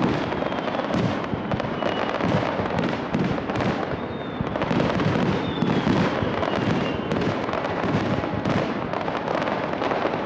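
Aerial firework shells bursting in a rapid barrage: a dense, unbroken string of bangs and crackles.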